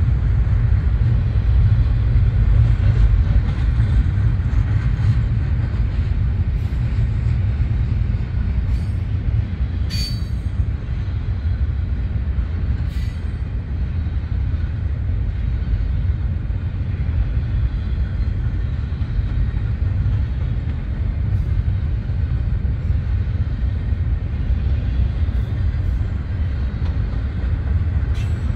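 Union Pacific double-stack container train's well cars rolling past, a steady low rumble with a few sharp wheel clicks and one brief squeal about ten seconds in.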